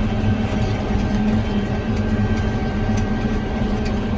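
Hay swather's engine running steadily at constant speed while cutting hay.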